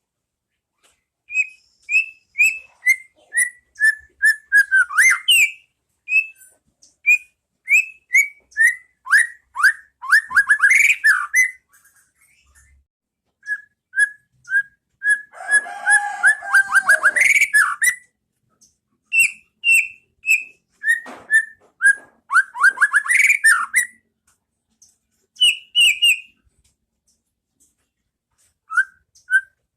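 White-rumped shama (murai batu) singing: runs of quick, clear whistled notes, many sliding down in pitch, in phrases broken by short pauses, with a rougher, fuller phrase about midway.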